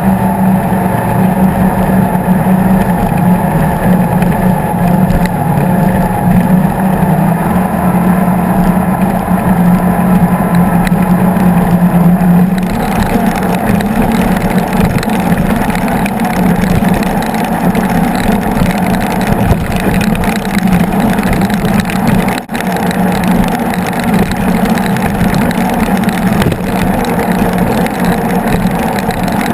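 Skater 36 catamaran powerboat's engines running at cruising speed, a loud steady drone with rushing wind and water. About twelve seconds in more hiss joins the drone, and there is a brief dip about twenty-two seconds in.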